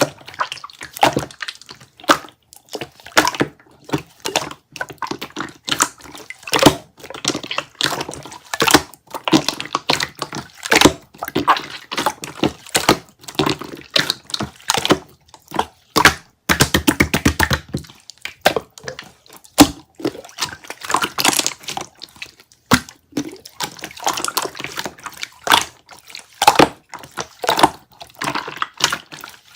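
Slime being squished and pressed by hand, making irregular wet clicks and crackling pops. A quick run of many small pops comes about halfway through.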